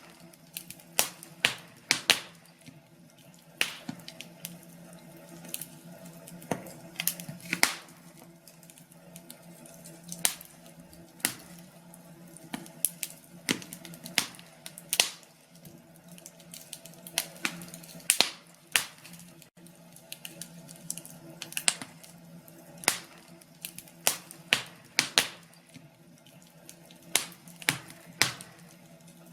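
Wood fire crackling, with irregular sharp pops every second or so over a faint steady low hum.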